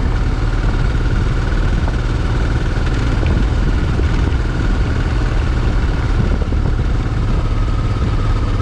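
Motorcycle engine running steadily, a constant low drone with a faint whine above it that sinks slightly in pitch.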